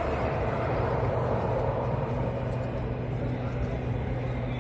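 Street traffic noise with a steady low rumble, swelling over the first couple of seconds as a vehicle passes.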